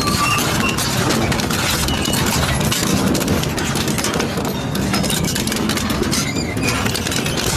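Double-shaft shredder grinding and tearing metal: a steady, loud mechanical churn full of crunching clicks, with a few brief high metallic squeals near the start.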